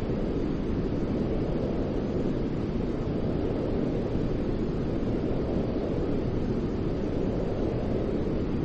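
Continuous low, deep-toned white noise for lulling a baby to sleep: an even, rushing hiss weighted toward the bass, with no pitch, rhythm or change in level.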